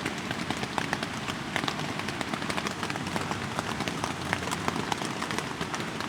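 Steady rain, with many separate drops landing in irregular sharp ticks.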